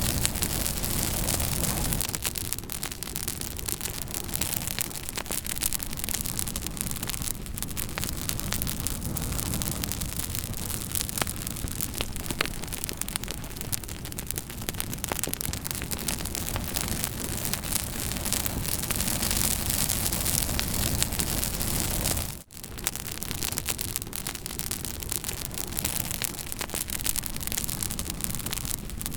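Campfire burning, a dense steady hiss of flames thick with sharp crackles and pops. The sound dips out for a moment about three-quarters of the way through.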